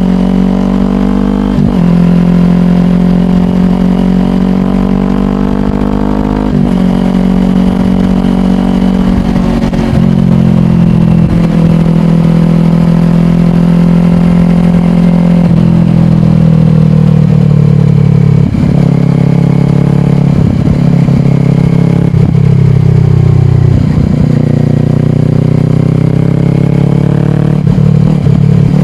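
2022 Kawasaki Ninja 400's parallel-twin engine through a slip-on exhaust, running under way with the engine note holding steady between a series of gear changes, where it breaks and steps in pitch several times.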